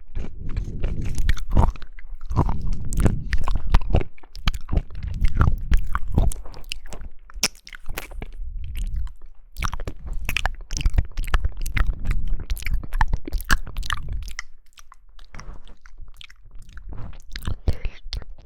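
A person chewing and biting jelly: a dense run of wet clicks and crunchy bites with heavy chewing underneath, thinning to lighter, sparser clicks about three-quarters of the way through.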